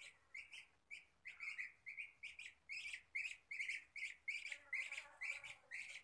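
Faint bird chirping: a rapid, even series of short high chirps, about four a second, growing a little louder in the second half.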